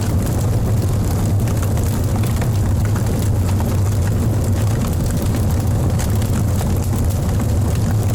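Wood fire burning in a fireplace: a steady low roar of flames with frequent small crackles and pops from the logs.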